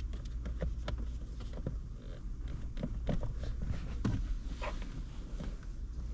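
Irregular light clicks and taps of hand tools and metal and plastic parts being worked on, over a steady low hum.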